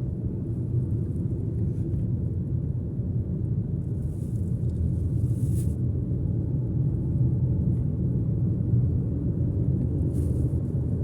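Steady low road and engine rumble heard from inside a moving car's cabin, with a brief rising hiss about five seconds in and again near the end.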